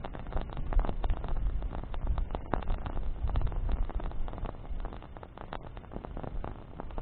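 Wood bonfire burning, crackling with dense, irregular snaps and pops over a low rumble.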